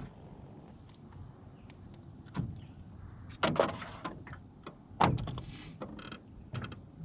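Irregular knocks and thumps in a jon boat as a small, feisty channel catfish is handled, with the two loudest about three and a half and five seconds in.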